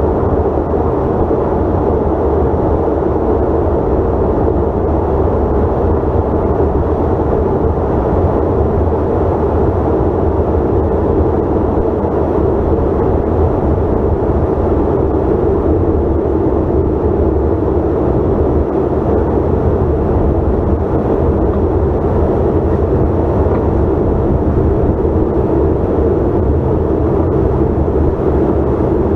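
Steady cabin noise of a Bombardier CRJ900 airliner under way: a loud, even rush of the twin rear-mounted GE CF34 turbofans and airflow, heavy in the low and middle range with no changes.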